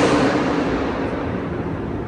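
A car's engine and exhaust running loud as it passes close by, then fading away, with a low rumble underneath.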